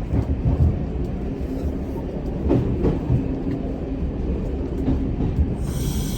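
Single-car diesel railcar running slowly, heard from the cab: a steady low rumble with a few wheel clicks over the rails. Near the end a high squealing hiss starts.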